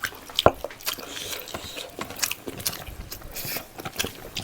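Close-miked mukbang eating: a person chewing and biting a mouthful of pork leg in gravy with rice, with many small wet clicks and smacks. One sharper click comes about half a second in.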